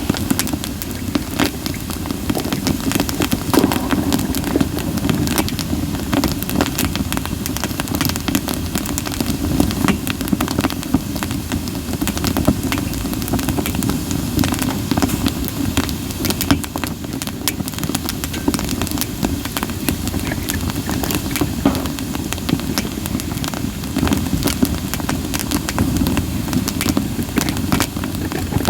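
Campfire of split sawtooth oak (kunugi) firewood burning, with frequent sharp crackles and pops over a steady low rumble of flame.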